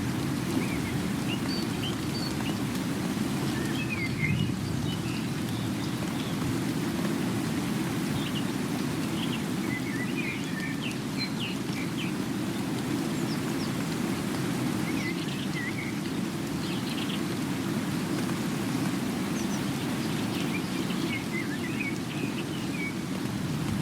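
Steady rain falling, with short, high bird chirps scattered through it.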